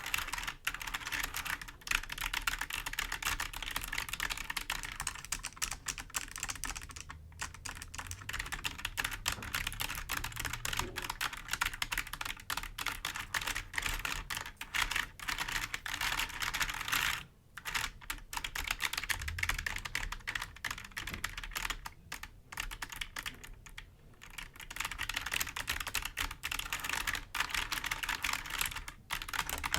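Fingers tapping and scratching on a computer keyboard's keys, a dense run of rapid clicks. It breaks off briefly three times.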